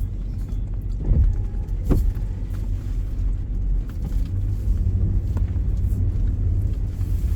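Steady low rumble of a car driving, heard from inside the cabin, with two short knocks about one and two seconds in.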